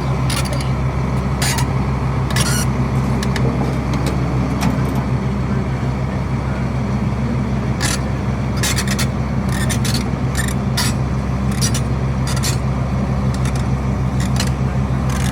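Truck engine running steadily with a low hum, with scattered sharp clicks and rattles on top.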